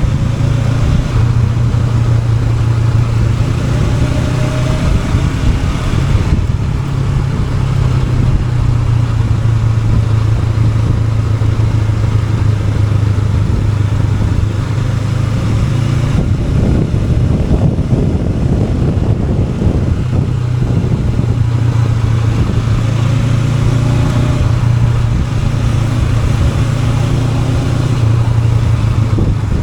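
Honda NX500's parallel-twin engine running under way. The note is steady with a few shifts in pitch and loudness, and it drops away into rougher road noise for a few seconds past the middle before picking up again.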